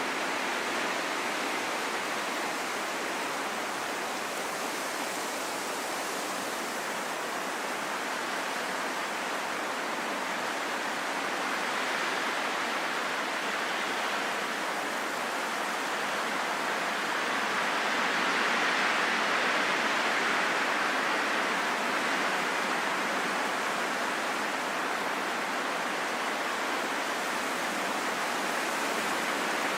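Wind blowing as a steady rushing hiss that slowly swells and eases, strongest about two-thirds of the way through.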